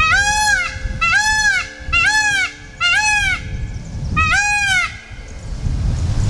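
A peacock calling five times in quick succession, each call a short, loud, nasal wail that rises and falls in pitch. A low rumble runs underneath and is heard alone in the last second or so.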